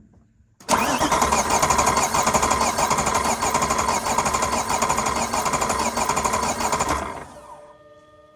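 BMW S65 V8 spun over on its starter motor for about six seconds without firing, in an even rhythmic cranking that winds down and stops about seven seconds in. This is a compression test on cylinder 3, which reaches only 30 psi: the piston rings in that cylinder have failed.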